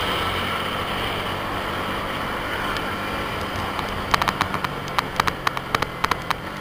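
Yamaha MT-15's single-cylinder engine running steadily while the bike cruises in fifth gear at about 69 km/h, with wind noise on the helmet microphone. About four seconds in, a run of sharp, irregular ticks starts and keeps going, louder than the engine.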